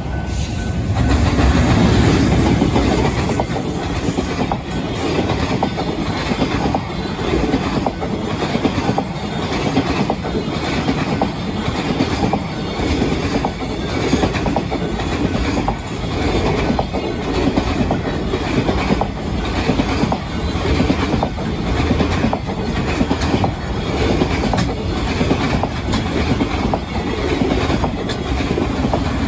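Freight train passing at close range: the sound rises to its loudest about two seconds in as the head of the train goes by, then a long string of freight wagons clatters past with a steady clickety-clack of wheels over rail joints.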